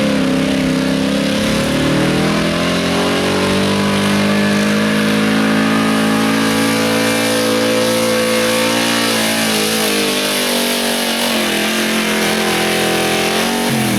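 Truck engine held at high revs during a truck pull: its pitch climbs over the first two seconds, holds steady, wavers later on and falls off sharply near the end.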